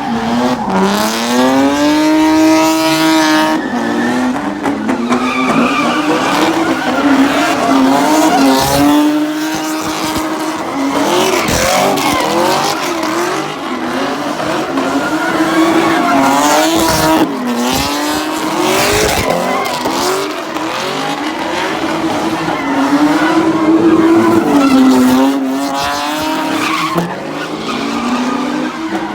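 Car engine revving hard, its pitch rising and falling over and over, with tyres squealing and skidding, as in a car doing burnouts or donuts.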